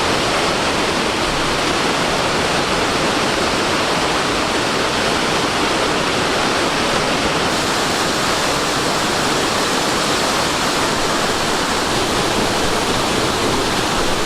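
Steady, loud rush of water from Amicalola Falls, a tall cascading waterfall.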